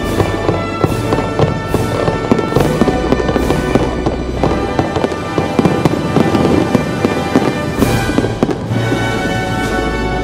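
Aerial fireworks going off in quick succession, a dense run of bangs and crackling pops with a heavier burst about eight seconds in, over loud accompanying music.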